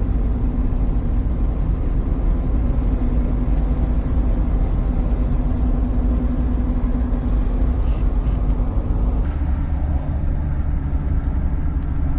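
Steady road and engine noise of a car heard from inside while driving: a low, even rumble with a faint steady hum that drops away about nine seconds in.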